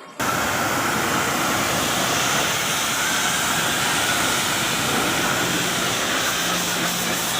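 High-pressure water jet spraying steadily, a loud even hiss that cuts in abruptly.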